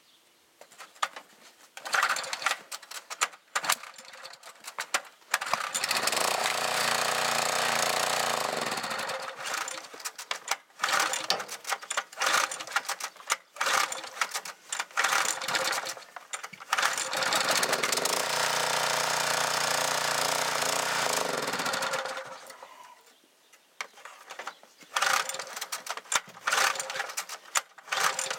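The go-kart mower's small gas engine is being cold-started. It sputters and fires irregularly in rough bursts, twice running for a few seconds before stumbling again. The owner puts its refusal to keep running down to a frozen carburetor.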